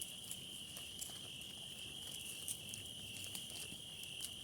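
Crickets singing: a steady, high-pitched continuous trill, with a few faint clicks.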